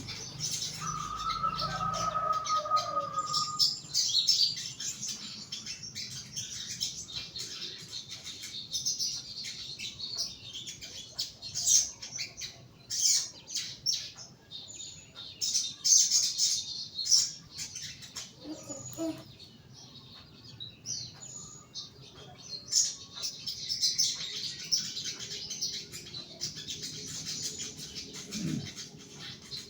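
A young caged sogon bird chirping repeatedly in short, high calls, with a held whistle-like note a second or so in and scattered clicks and flutters from movement in the cage.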